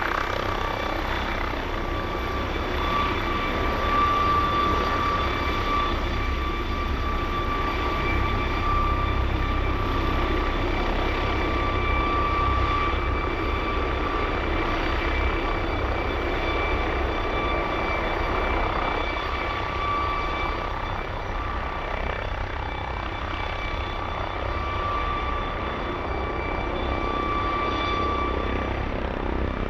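Airbus Helicopters H225 twin-turbine helicopter running steadily: a high turbine whine over a low rotor beat.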